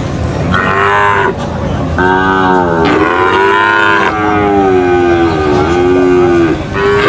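Cow mooing: a short moo about half a second in, then one long, drawn-out moo lasting over four seconds, with another starting right at the end.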